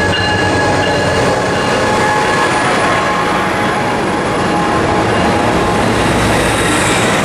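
A train passing close by, a loud steady rush of wheels on rail with thin high squealing tones from the wheels. A faint high whine slowly rises in pitch.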